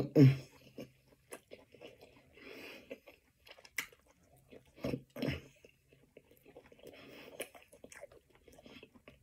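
A person chewing and biting food close to the microphone, with soft wet mouth clicks and smacking between bites.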